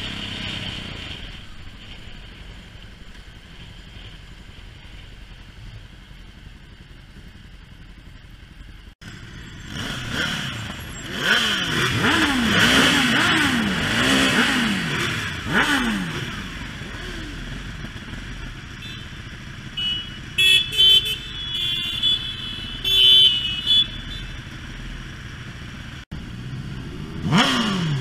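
Motorcycle engines pulling away, their pitch rising and dropping again and again through gear changes. A quieter steady engine sound comes first, and several short high-pitched beeps come near the end.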